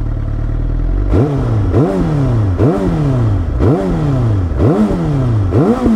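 Suzuki GSX-R 750's inline-four with an Akrapovič exhaust, idling and then blipped about six times in quick succession. Each blip rises sharply in pitch and falls back more slowly, about one a second.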